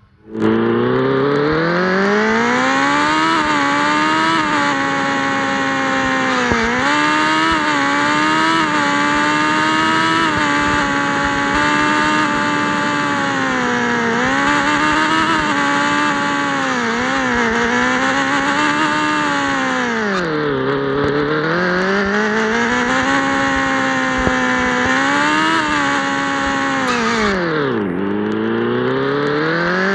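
Yamaha XJ6's inline-four engine running loud through an open aftermarket exhaust as the bike is ridden, its pitch rising and falling with the throttle and gear changes. It drops low twice, about two-thirds of the way through and near the end, then climbs again.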